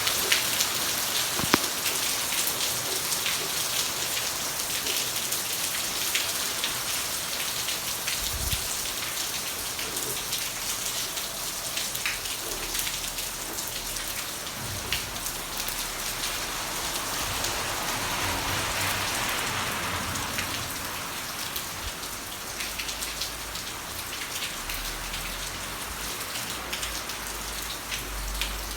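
Heavy rain pouring down steadily, with many sharp drop impacts ticking on nearby surfaces.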